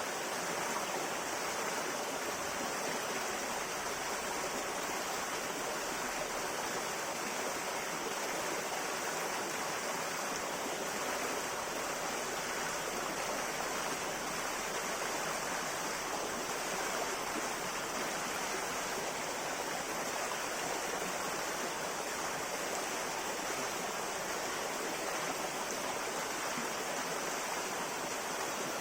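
River water flowing over stones in a steady, even rush, with no breaks or changes.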